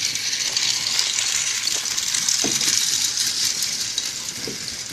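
Battery-powered toy train running around its plastic track: a steady, busy rattle of fine clicks from its wheels and small motor, with no sound effects.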